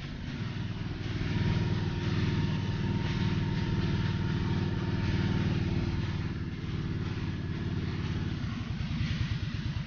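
Motorcycle engine running steadily. About eight seconds in it eases off, and its firing pulses slow.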